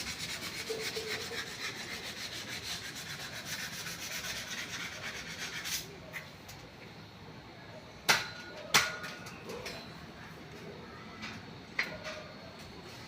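Rapid, even scraping strokes of hand work on a hard surface, stopping about six seconds in. Then two sharp knocks under a second apart, and another near the end.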